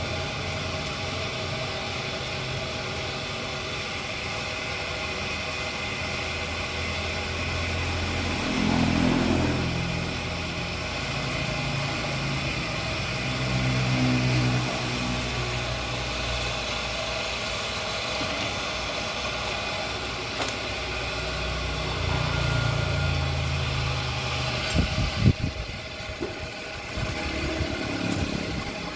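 Engine of a workshop-built machine running, its note rising and falling three times as it is revved. A few sharp knocks near the end.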